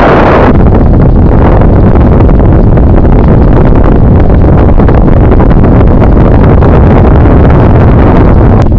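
Loud, steady wind noise buffeting the microphone of a camera riding along on a moving bicycle, with a stronger gust right at the start.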